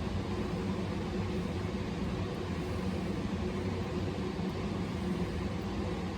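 A machine running with a steady hum and a constant background hiss.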